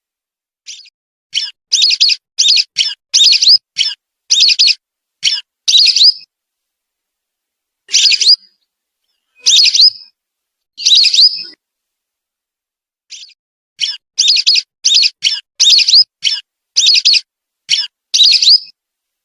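Whistling duck (belibis) calls played as a bird lure: runs of short, high whistled notes, several a second, broken in the middle by a few longer single calls, with complete silence between them.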